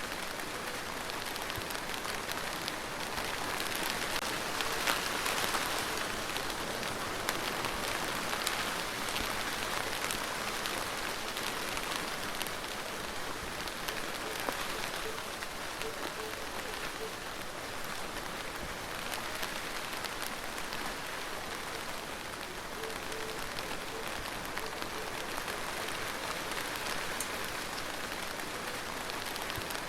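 Steady rain falling, a dense even hiss of many small drops pattering on surfaces.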